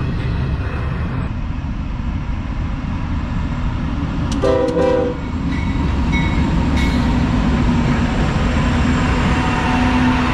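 CSX freight train rumbling past, with a short horn blast about four and a half seconds in and brief high squeals from the wheels a little later.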